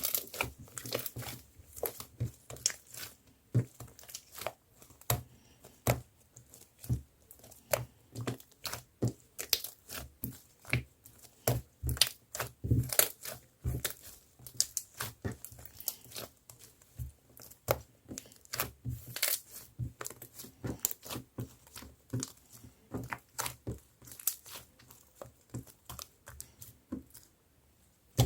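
Marbled slime being squished and pulled by hand, giving a steady, irregular string of sticky pops and crackles, several a second.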